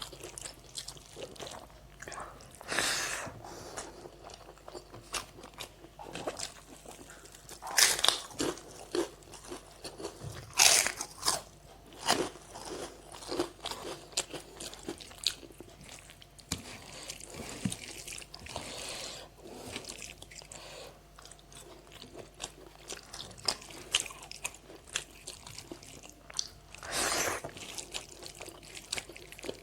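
A person chewing and crunching food close to the microphone: many small wet mouth clicks, with several louder crunching bites scattered through.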